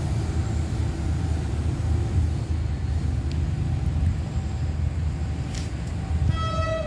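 Low, steady rumble of a diesel freight train approaching, and near the end its horn starts, one steady note held on.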